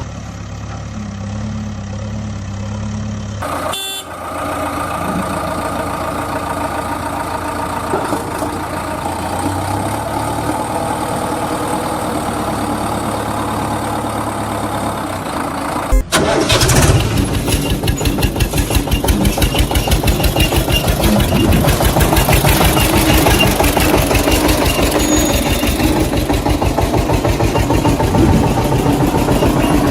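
Tractor engine idling with a steady hum. About halfway through, it cuts abruptly to a louder, fast, even chugging of an engine running.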